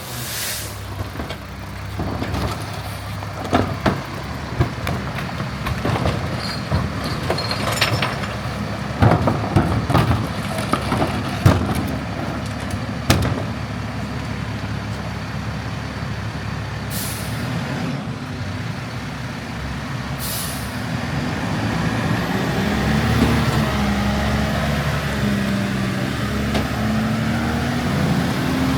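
Garbage truck running, with short hisses of air brake release and a run of clanks and knocks during the first half. Near the end the engine revs up.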